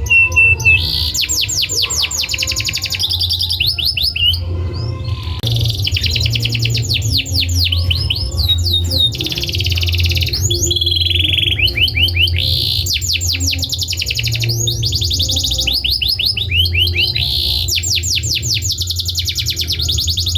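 Domestic canary singing: fast rolling trills of rapidly repeated notes alternating with held whistled tones, over a steady low hum.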